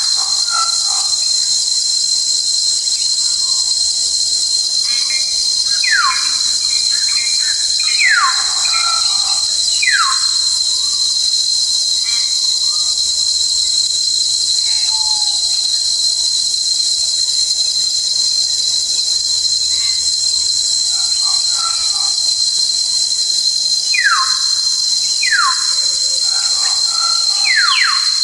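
A steady, high-pitched drone of forest insects, with a bird giving clear whistled notes that each slide downward. The whistles come in a few groups, about a quarter of the way in and again near the end.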